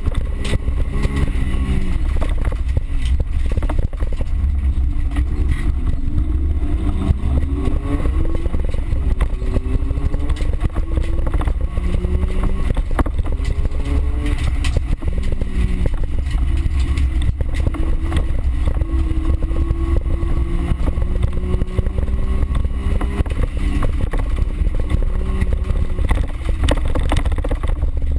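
Race car's engine heard from inside the cabin under hard driving on a dirt track, revving up and down through gear changes, the pitch climbing in long pulls, over a heavy low rumble from the car at speed.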